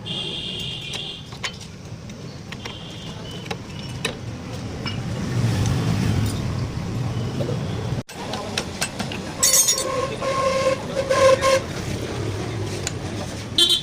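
Street traffic rumbling steadily, with scattered light clicks and taps of hand tools on the motorcycle. From about the middle on, a louder clatter comes with a horn-like tone.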